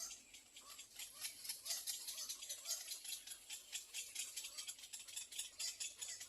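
Soft, rapid clicking and rattling at a little egret nest, several irregular ticks a second, with faint small chirps mixed in: the chatter of nestlings begging for food.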